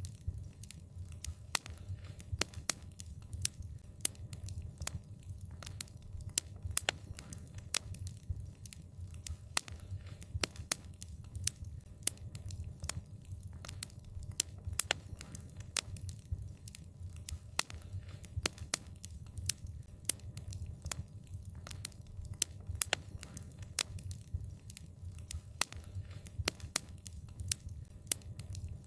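Wood fire crackling: irregular sharp pops and snaps, several a second, over a low, steady rumble.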